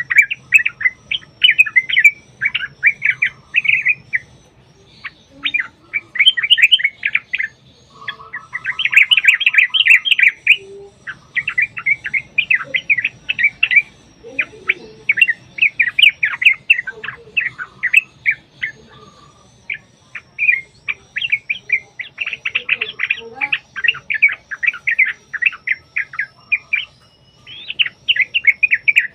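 Yellow-vented bulbuls (trucukan) singing long, rapid, bubbling chattering phrases, one run after another with short pauses between them.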